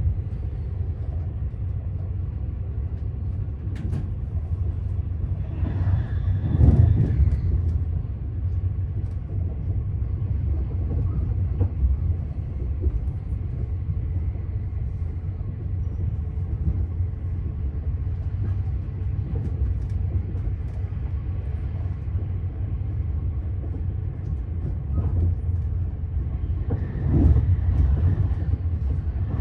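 Passenger train running at speed, heard from inside the carriage: a steady low rumble, swelling louder with a rattle about six seconds in and again near the end.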